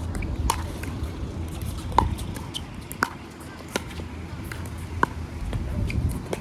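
Pickleball rally: sharp pops of paddles striking the plastic ball, about one a second, the loudest about two seconds in. Wind rumbles on the microphone throughout.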